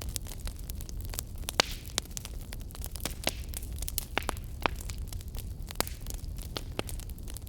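Wood fire crackling: irregular sharp pops and snaps over a steady low rumble of the flames, with one louder pop about one and a half seconds in.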